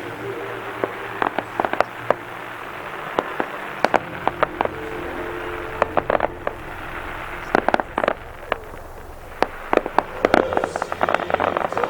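Aerial fireworks popping and crackling in irregular clusters of sharp reports, thickening into a dense rapid crackle near the end.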